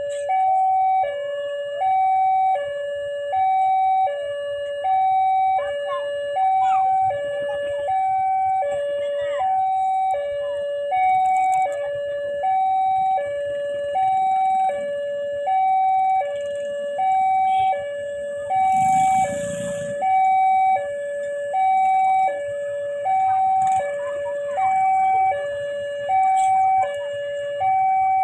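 Railway level-crossing warning alarm: an electronic two-tone signal alternating between a higher and a lower tone, about a second each, repeating steadily, the sign that a train is approaching the crossing. A short burst of noise cuts in about 19 seconds in.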